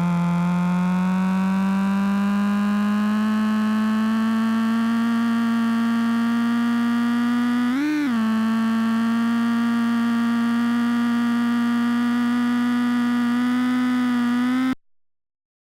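Mazda engine in a VAZ 2104 running at high revs, its pitch climbing slowly and steadily, as in acceleration, with one quick rise and fall about halfway through. The sound cuts off abruptly near the end.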